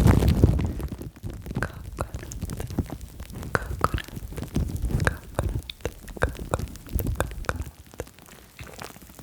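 Close-miked ASMR mouth sounds: irregular wet tongue clicks and small hollow pops, a few each second.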